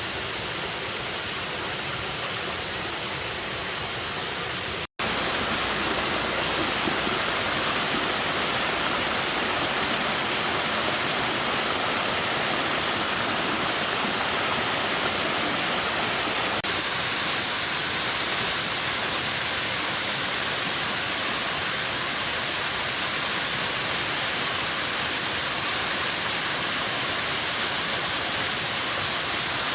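Steady rushing water, like a forest stream or waterfall in spate, with a brief break about five seconds in, after which it carries on slightly louder.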